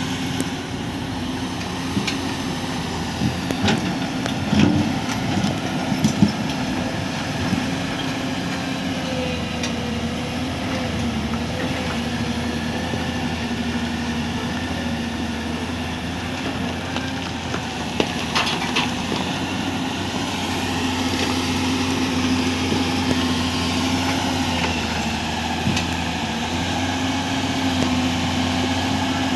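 Heavy construction machine's engine running steadily, its pitch wavering slightly, with a few sharp knocks and clanks a few seconds in and again about two-thirds of the way through.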